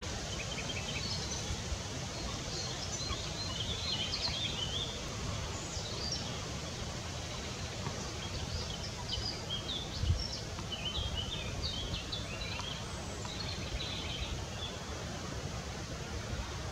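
Small birds chirping in the background, short high notes scattered throughout, over a steady low rumble on the microphone, with one brief thump about ten seconds in.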